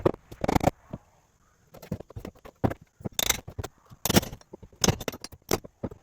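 Irregular knocks, scrapes and rattles of wood debris and tools being handled and cleared away, with a short lull about a second in.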